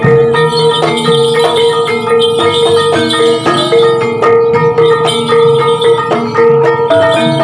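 Javanese kuda lumping gamelan accompaniment: struck metallophones and hand drums playing a steady, busy rhythm under a long held melody tone that breaks off and returns every second or two.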